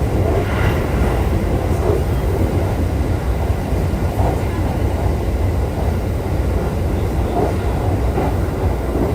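Running noise of a JR East E531 series electric train at speed: a steady, heavy low rumble of wheels on rails with a noisy hiss above it, heard from inside the car.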